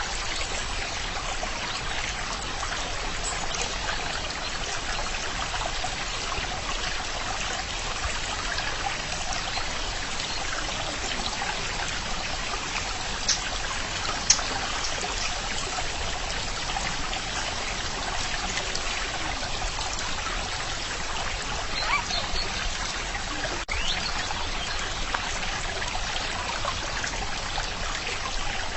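Steady trickling of a running stream. A few brief sharper sounds stand out about halfway through and again near the end.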